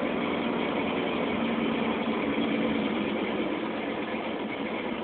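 Ford 5.0 HO V8 of a 1989 Fox-body Mustang LX idling steadily just after being started. The engine has a cam and breathes through a custom H-pipe and Flowmaster mufflers with no catalytic converters, heard from inside the cabin.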